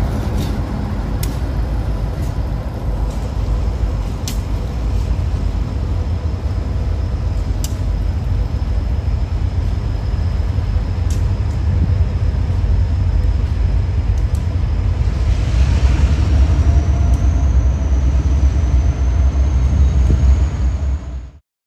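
Freight train running, a steady low rumble with occasional sharp clicks and, in the last few seconds, a thin high squeal; the sound cuts off abruptly near the end.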